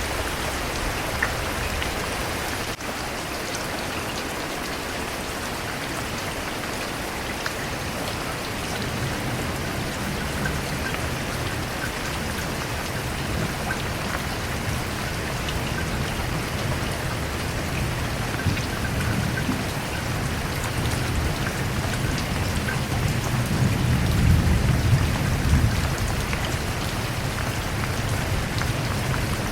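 Steady rain falling, with a low rumble of thunder that builds through the second half and is loudest near the end.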